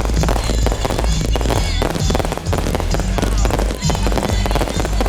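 Fireworks going off in quick succession, many sharp pops and crackles, over loud music with a steady heavy bass.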